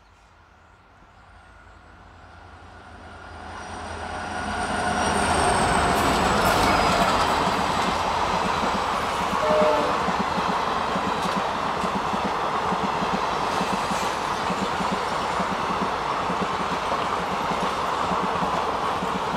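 A train approaching and passing at speed: the sound swells over the first five seconds, then the steady rush and clickety-clack of wheels over the rail joints carries on as the train goes by.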